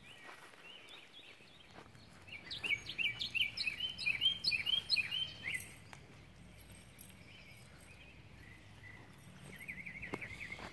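Songbird singing outdoors: a fast run of bright, repeated chirping notes starting about two seconds in and lasting about three seconds, then a shorter quick trill near the end, over faint steady background noise.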